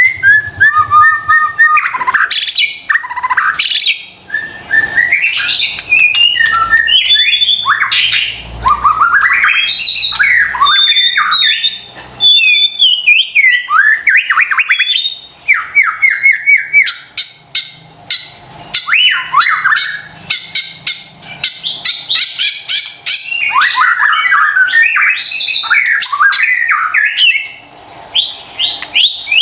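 White-rumped shama (murai batu) in full, vigorous song: a loud, unbroken run of varied whistled phrases, fast trills and quick sweeping notes, with brief pauses about four and twelve seconds in and again near the end.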